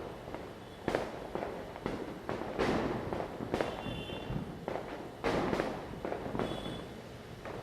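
Firecrackers going off during Diwali night: a steady crackle of distant bursts with louder sharp bangs every second or so, each trailing an echo, the strongest about a second in, midway and a little over five seconds in. Brief faint whistling tones are heard a few times.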